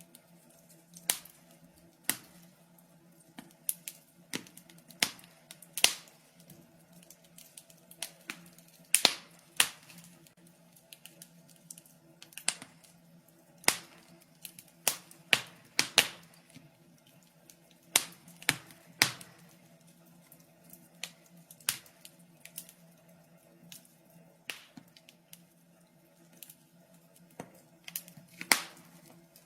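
Wood fire in a fireplace crackling: irregular sharp pops and snaps, a few louder ones standing out among many small ticks, over a faint steady hum.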